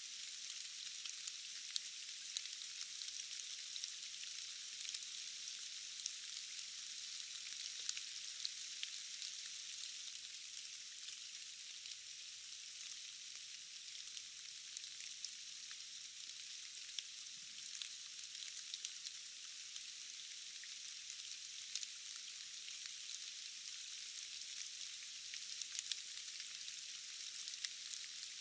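Steady rain falling: an even, thin hiss with many small drop ticks scattered through it, and no low rumble.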